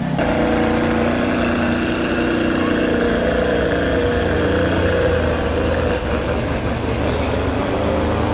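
Ferrari 599 GTB's V12 engine running steadily at low revs as the car creeps along in traffic, with no hard revving.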